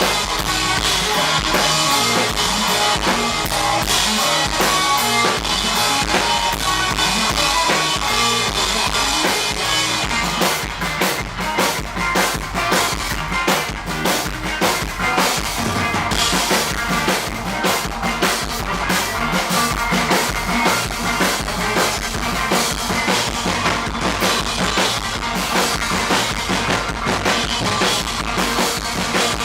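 Live rock band playing an instrumental interlude: guitar and bass over a drum kit, with the drums coming to the fore from about ten seconds in with a steady run of kick, snare and rimshot hits.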